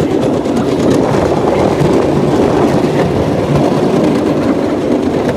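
Cambodian bamboo train (norry) running along the rails: a steady, loud rattle and clatter of the wheels on the track.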